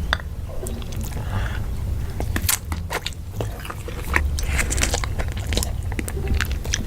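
A person chewing and biting into crunchy food close to the microphone, with irregular crisp crunches.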